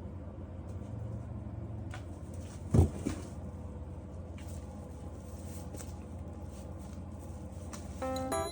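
Kittens moving about on a hard surface: a few light taps and one louder thump about three seconds in, over a steady low room hum. Plucked keyboard-like music notes begin near the end.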